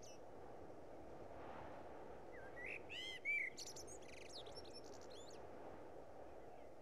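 Birds chirping and whistling over a faint, steady outdoor ambience hiss, with a cluster of quick chirps about three seconds in.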